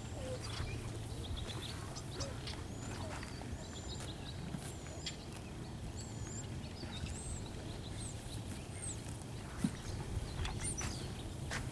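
Outdoor ambience: small birds give short, high chirps and whistles now and then over a low, steady rumble, with a few soft clicks.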